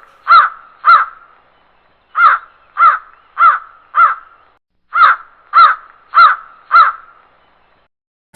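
Crow cawing: harsh, repeated caws about 0.6 s apart, two then two runs of four with short pauses between them.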